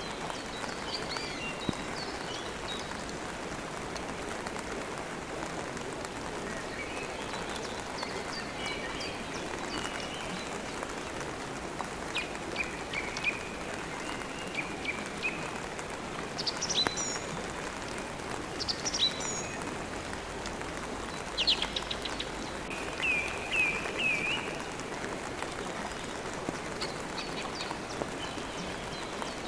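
Steady rain falling, with birds chirping over it: scattered calls early on, then a busier run of short, quick chirps through the middle and latter part.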